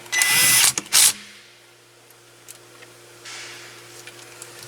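A cordless screwdriver runs in a short burst of about half a second, driving in a mounting screw of the new steering-column multifunction switch, followed by a sharp click about a second in. A fainter burst of noise comes near the end.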